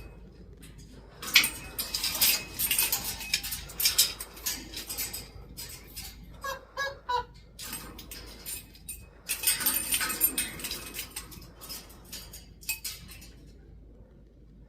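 African grey parrot scrabbling about, a clattering of clicks, scrapes and rattles in spells, with a few short squeaky calls about halfway through.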